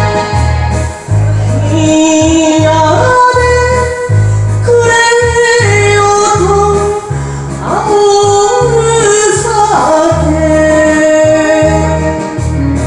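Enka song: a woman's voice singing a slow melody with pitch slides over an instrumental backing with a steady pulsing bass.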